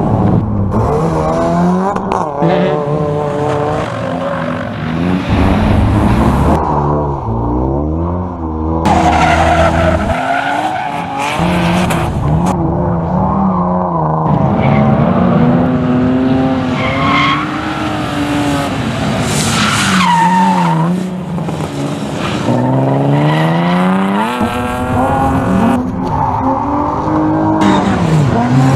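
Rally car engines at high revs, rising and falling again and again through gear changes and braking, with tyres squealing as the cars drift through corners.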